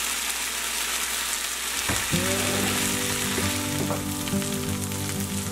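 Shrimp, onions and curry leaves sizzling in oil in a nonstick frying pan, stirred with a wooden spatula, as a dry fry with no water added. A steady hum of several tones comes in about two seconds in.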